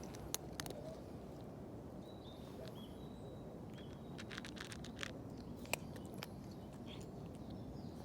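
Outdoor background with a steady low rumble, a few short high bird chirps in the middle, and scattered sharp clicks and ticks.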